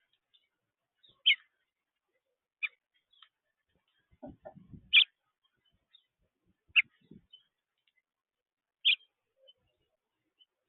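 Small birds chirping: about five short, sharp single chirps spaced a second or two apart, with a few faint low rustles or taps between them.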